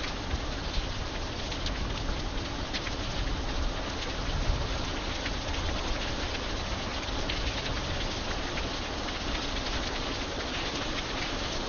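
Rain falling steadily, a dense even hiss with individual drops ticking sharply on a hard surface.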